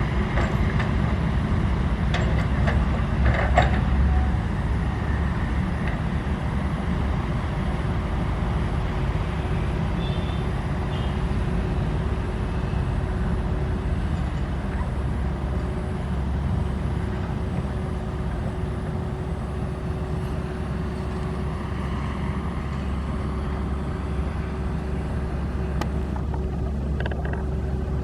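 Diesel engine of a SANY SY135F excavator running steadily, working under load. A few short knocks come about three to four seconds in and again near the end.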